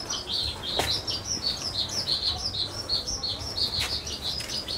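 Small birds chirping continuously in quick, high notes, with two short knocks, one about a second in and one about four seconds in.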